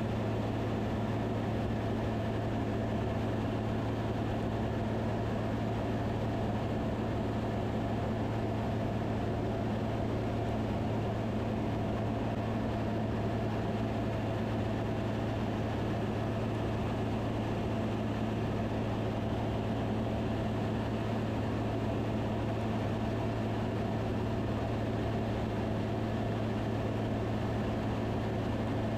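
Van's RV-10 light aircraft in flight, its engine and propeller making a steady, unchanging drone with a strong low hum.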